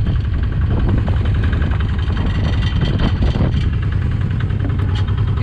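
A small fishing boat's engine running steadily under way, a constant low drone.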